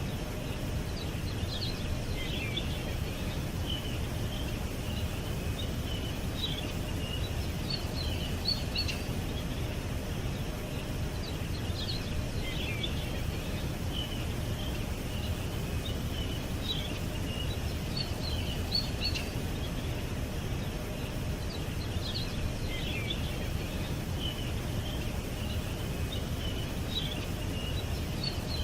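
Small songbirds chirping and twittering in short high bursts every few seconds, over a steady low rumble of background noise.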